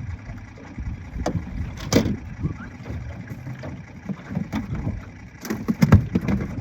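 Wind-driven waves slapping and knocking against the hull of an aluminum jon boat, in irregular thumps with the hardest knocks about two seconds in and near the end.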